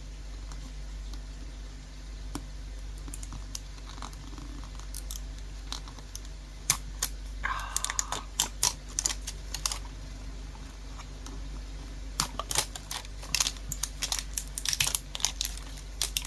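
Irregular sharp clicks and crinkles of plastic packaging being picked at and torn by hand, growing busier in the second half, with a brief squeak about eight seconds in. A steady low hum from a fan and a bubbling fish tank runs underneath.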